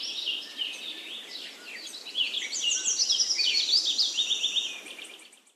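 Several birds chirping and calling, with quick runs of short high notes that get louder about two seconds in, then fade out at the end.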